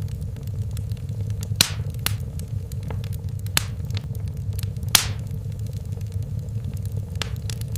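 Fireplace fire burning with a steady low rumble and a few sharp crackles and pops, the two loudest about one and a half and five seconds in.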